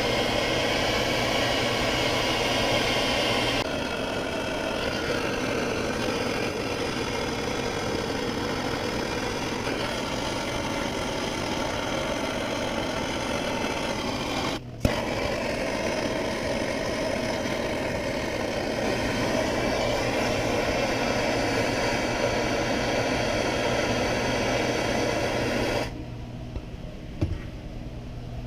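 Gas torch burning with a steady hiss, heating a stubborn differential bearing to loosen it. The hiss breaks for an instant about halfway through and stops a couple of seconds before the end.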